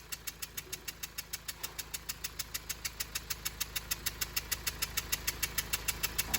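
Kia Carnival 2.2 diesel four-cylinder engine idling with a rapid, even chuffing tick, about seven a second. This is the 칙칙폭폭 (choo-choo) noise of compression leaking past a damaged injector copper washer.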